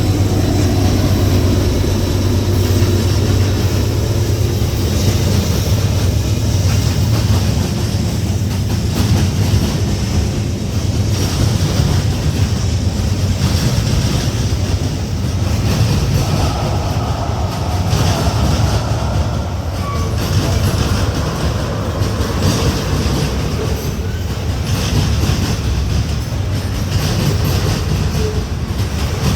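Freight train rolling past, its railcars clattering steadily over the rail joints, with a low drone strongest in the first several seconds.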